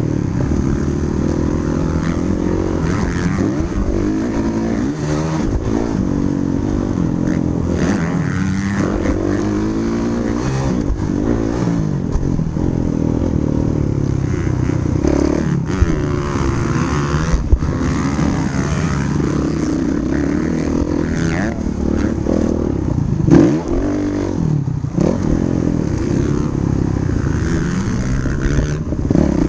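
Motocross dirt bike engine revving up and down as the throttle is opened and closed around the track, with the pitch falling off briefly several times. There are a few sharp knocks along the way.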